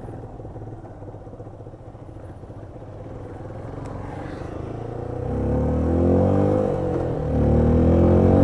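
Yamaha FZS motorcycle's single-cylinder engine idling, then pulling away about five seconds in: the revs rise, drop briefly at a gear change, and rise again.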